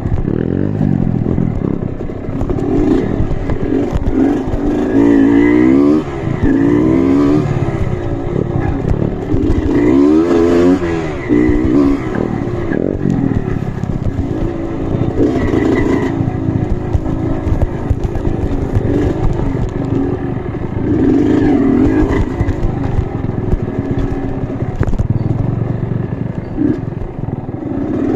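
Off-road trail motorcycle engine revving up and down repeatedly, with some clatter and scraping.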